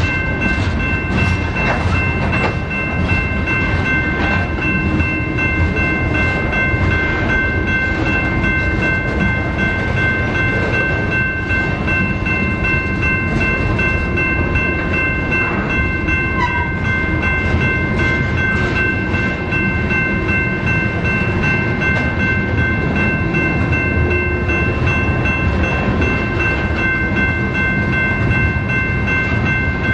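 BNSF freight train rolling past, its cars rumbling steadily over the rails with wheel clicks in the first few seconds, and a steady high ringing of several tones held throughout.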